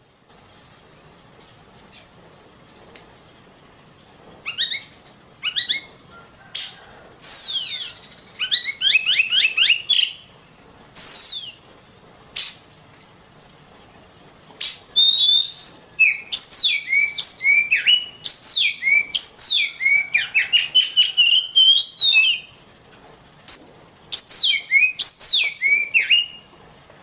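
Oriental magpie-robin (kacer) singing: phrases of quick, clear whistled notes, many sweeping downward, beginning about four seconds in and broken by short pauses.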